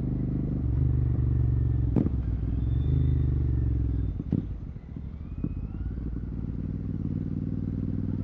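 Royal Enfield Continental GT 650's parallel-twin engine through a Red Rooster exhaust with the dB killer removed, pulling steadily and then easing off about halfway through to a lower, steady note. Two sharp clicks are heard along the way.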